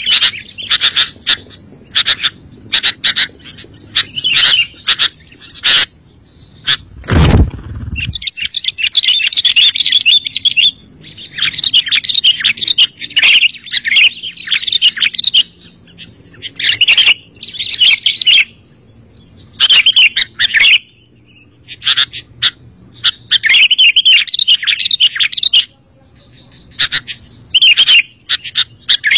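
Sooty-headed bulbul (kutilang) singing: short separate notes at first, then bursts of busy chattering song a second or two long, repeated with short pauses. A single loud thump about seven seconds in.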